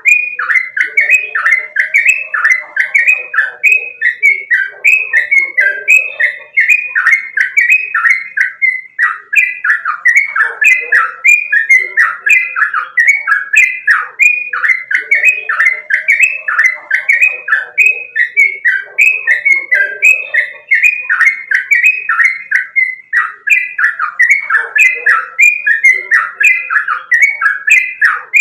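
Sooty-headed bulbul (trucukan) singing without pause: a rapid, continuous run of short, repeated notes, several a second.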